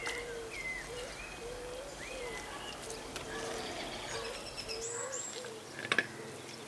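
Several birds calling outdoors: repeated short bending calls, with higher chirps and a thin whistle about five seconds in. Two quick sharp clicks just before the end are the loudest sounds.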